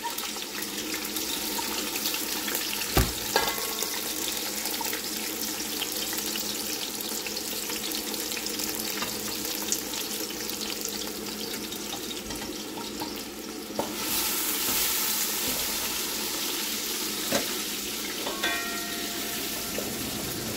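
Food frying in hot oil in a cooking pot, a steady sizzle that grows louder about two-thirds of the way through, with a single knock about three seconds in.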